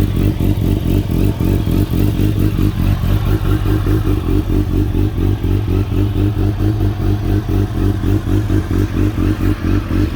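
2007 Kawasaki Ninja ZX-10R's inline-four engine idling steadily through an aftermarket full titanium exhaust, with a regular pulse in its note a few times a second.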